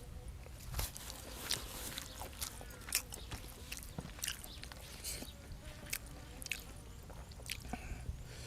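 A person eating close to the microphone: irregular wet chewing clicks and crunches of food being bitten and chewed.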